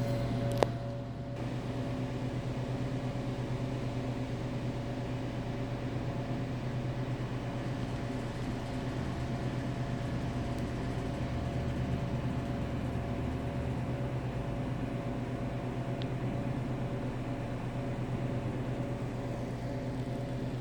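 A steady mechanical hum with a constant low drone and a few steady higher tones, and a single sharp click about half a second in.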